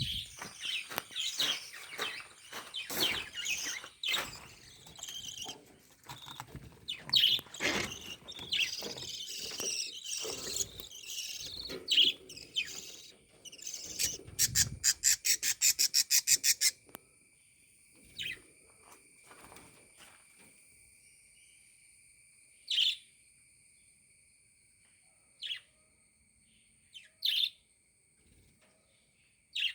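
Caged budgerigars chattering and chirping busily, ending in a fast, even run of chirps that stops suddenly a little over halfway through; after that only a few single chirps.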